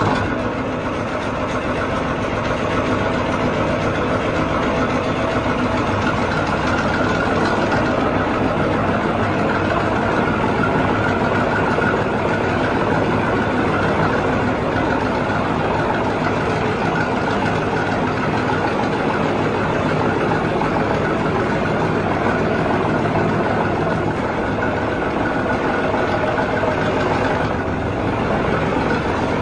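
A tractor-type engine running steadily.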